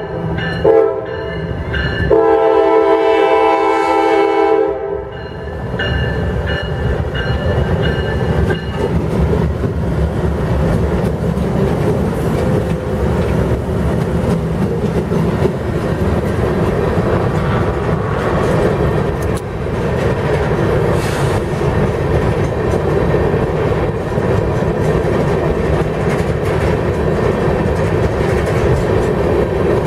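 A GE Dash 9 diesel locomotive's air horn sounds a short blast and then a long one that ends about five seconds in. The lead locomotives then pass close by with a heavy diesel rumble, followed by loaded rock hopper cars rolling past with steady wheel clatter over the rail joints.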